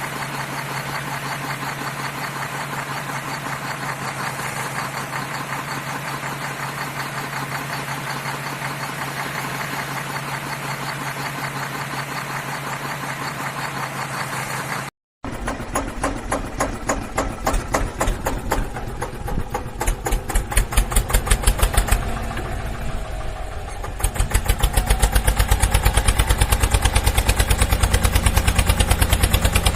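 A vehicle engine running, steady at first; after a brief break about halfway through, it changes to a fast, regular chugging that gets louder near the end.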